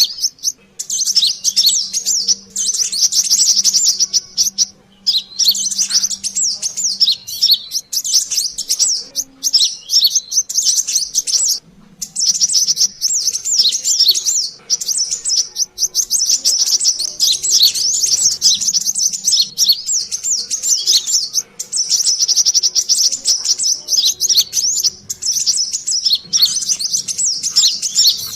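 Sunbird (kolibri kelapa) lure call: rapid, high, busy chirping and twittering in near-continuous bouts, broken now and then by brief pauses.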